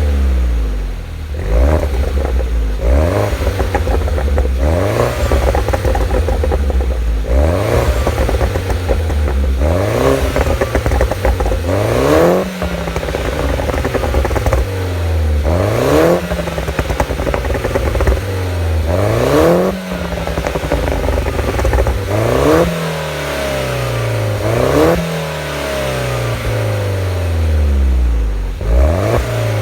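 Mini Cooper R56 John Cooper Works' 1.6-litre turbocharged four-cylinder engine through its stock exhaust, revved up and let fall back about a dozen times.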